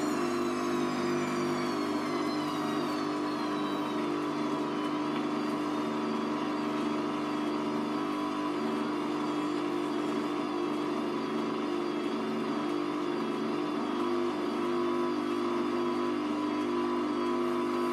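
Hoover Vision Tech washing machine spinning its drum, the motor whine easing down in pitch over the first several seconds, holding steady, then starting to climb again near the end: a spin phase of the wash cycle.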